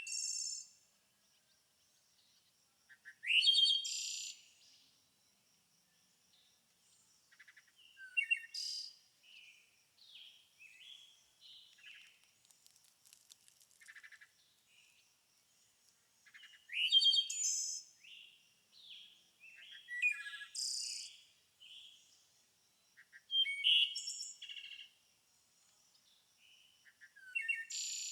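Songbirds singing: a loud, complex song phrase of about a second, sweeping up and down in pitch, recurs every three to five seconds, with fainter chirps and calls in between. A faint steady high tone runs underneath.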